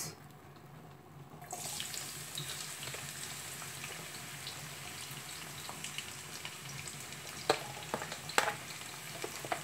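Sliced onions sizzling in hot vegetable oil in a frying pan: a steady frying hiss with light crackles that starts about a second and a half in as the onions go into the pan. Two sharp knocks near the end.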